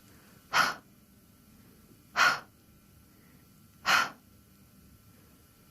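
A person voicing the phonics /h/ sound three times: short, breathy, unvoiced puffs of breath about a second and a half apart.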